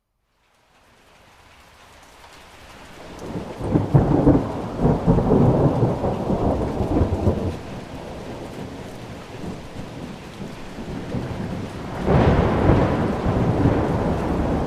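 Thunder rolling over steady rain. After a brief silent gap at the start, a low rumble builds to a loud peal about four seconds in and rumbles on for a few seconds; a second peal breaks near the end.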